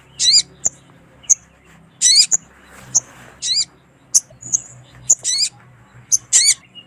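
Little spiderhunter (sogon) calling: sharp, high single chips alternating with short, wavering zigzag calls, about one every second. It is a female's call, played to lure males.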